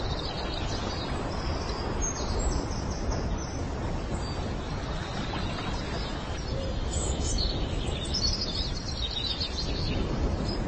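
Birds chirping in several short runs of high calls over a steady, rushing background noise.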